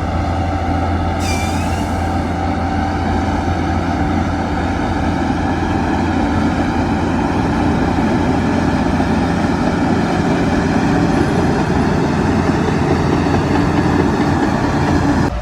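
Heavy diesel earthmoving machinery running steadily under load, with a brief high squeal about a second in.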